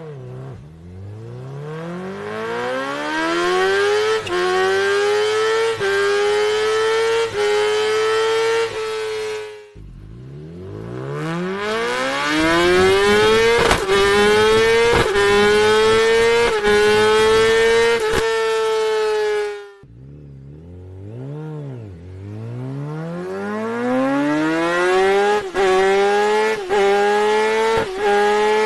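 Sport motorcycle with a racing exhaust accelerating hard at high revs, climbing through the gears with a quick upshift about every second. There are three such runs, separated by short breaks, with a brief rev blip between the second and third.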